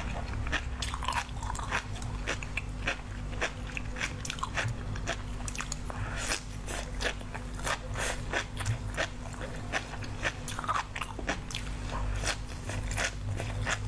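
Sea grapes (umibudo seaweed) being bitten and chewed close to the microphone: a dense run of small crisp pops and crackles, several a second, as the beads burst. A faint steady low hum runs underneath.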